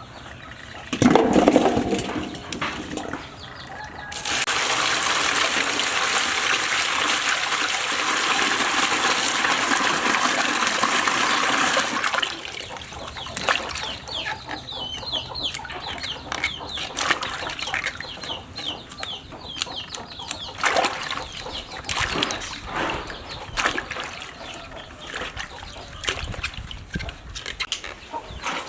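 Water rushing steadily for about eight seconds, then scattered clicks and knocks, with hens clucking.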